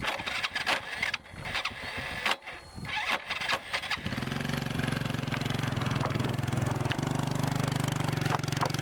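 Irregular knocks and clatter, then about four seconds in a small engine or motor starts and keeps running steadily.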